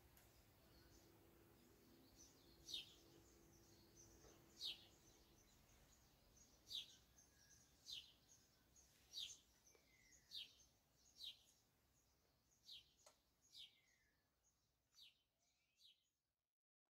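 Faint bird chirps: short, high, falling calls repeated about once a second, fading out near the end.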